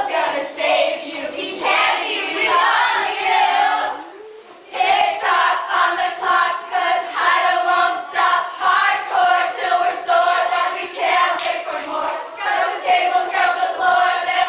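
A group of young voices singing together in unison, holding notes in a steady rhythm, with a short break about four seconds in.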